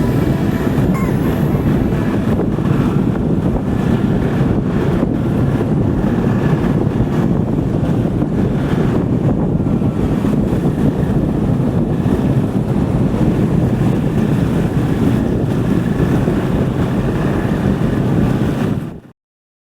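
Strong wind buffeting the microphone: a loud, steady low rumble that cuts off suddenly near the end.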